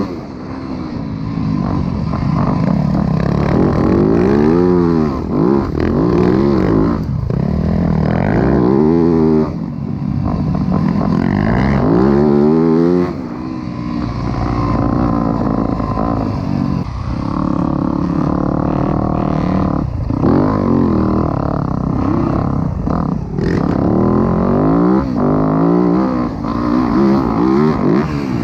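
Dirt bike engine being ridden hard, its pitch rising and falling again and again as the throttle is opened and closed.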